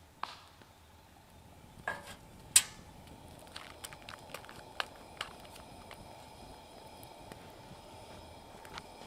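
Metal camp cookware clinking a few times, loudest about two and a half seconds in, then a faint steady sizzle with scattered small crackles from campfire cooking.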